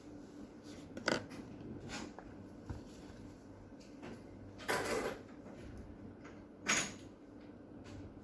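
Small objects handled on a work surface: a few short clicks and scrapes, the longest about five seconds in, typical of watch parts and small tools being picked up and set down during watch repair. A steady low hum runs underneath.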